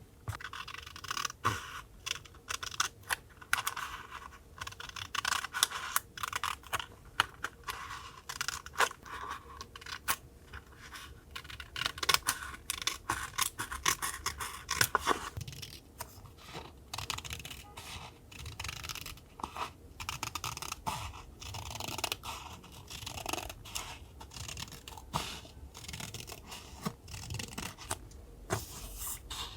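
Paper being handled and cut with scissors for a collage: irregular short snips, clicks and rustles of paper.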